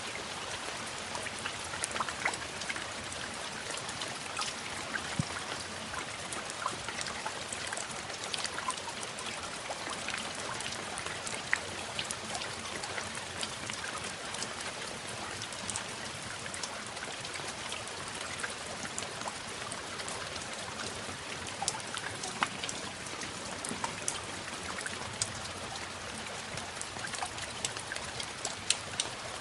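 Steady rain: a constant hiss with many sharp individual drops ticking.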